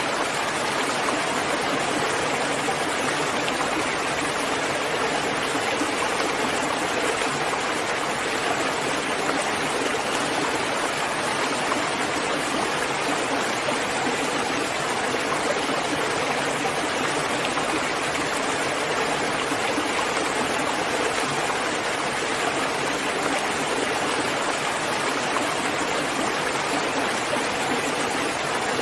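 Steady rain falling, a dense, even hiss that holds unchanged throughout, with no single drops or thunder standing out.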